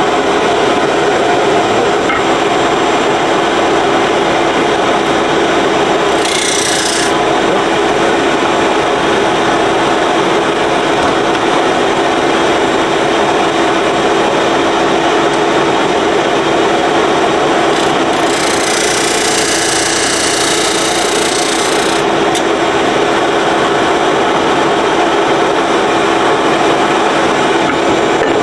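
Disc sander running with a steady hum while a fence-picket board is pressed against the disc to sand an angle onto its end. The grinding turns harsher briefly about six seconds in and again for several seconds around twenty seconds in.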